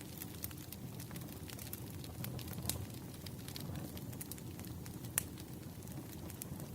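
Wood fire burning, with a steady low rumble and irregular sharp crackles and pops from the burning logs; two pops stand out, a few seconds apart.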